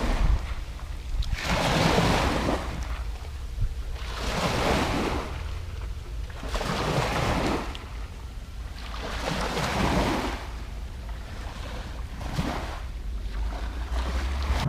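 Small waves washing in and drawing back, five swells of hiss about two and a half seconds apart, over a steady low rumble of wind on the microphone.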